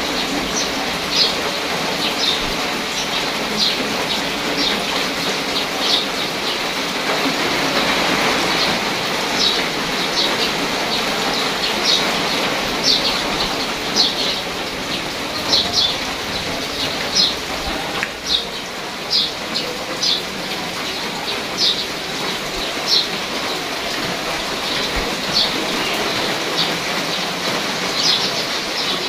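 Steady rain falling on garden foliage and grass, with a bird's short high chirps repeating about once a second over it.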